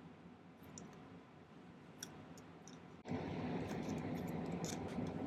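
Faint small metal clicks of tools against sterling silver wire as it is bent by hand. About three seconds in, a steady rushing noise starts abruptly and carries on.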